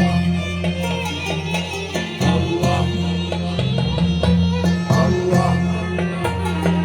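Malouf ensemble playing an instrumental passage between sung verses: a violin melody over steady held bass notes, with frequent drum strokes.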